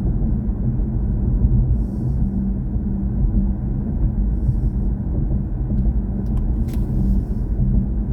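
Steady low road and tyre rumble inside the cabin of a BMW i4 M50, an electric car, while it drives, with no engine note. A couple of faint clicks near the end.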